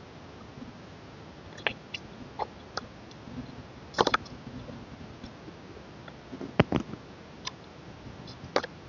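Irregular light clicks and taps of an album's packaging and printed contents being handled, with a cluster of louder clicks about four seconds in and the sharpest knock at about six and a half seconds.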